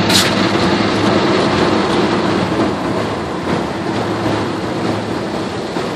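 Automatic car wash's rotating brushes scrubbing over the car, heard from inside the car as a loud, steady noise with a low machine hum underneath. A sharp knock at the very start.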